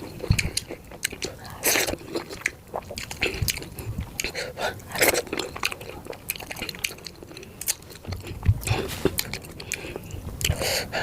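A person eating close to the microphone: biting, chewing and crunching food in a run of quick, irregular clicks and smacks.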